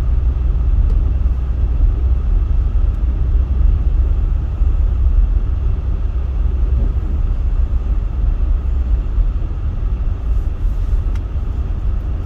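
Steady low rumble inside a car's cabin while it is driven: engine and tyre noise on a snow-covered road, with the heater/defroster fan running.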